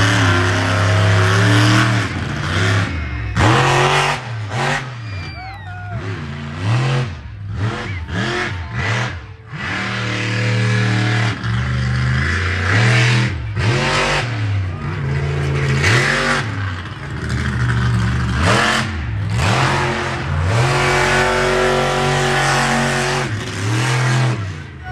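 Monster truck engine revving hard and falling back again and again, its pitch swinging up and down many times.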